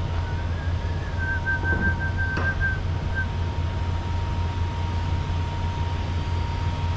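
Semi truck's diesel engine idling with a steady low rumble. For the first three seconds a high, slightly wavering whistle sounds over it, with a single faint click partway through.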